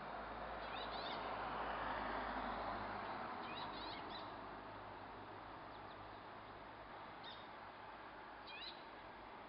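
Birds chirping: a few short, high chirps spaced out over several seconds. Underneath is a rushing background noise that swells for the first two seconds and then fades.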